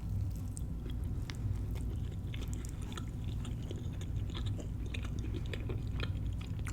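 Close-miked chewing of a cornmeal-fried catfish sandwich on a pretzel bun: a run of small, irregular wet clicks and light crunches as the mouthful is worked.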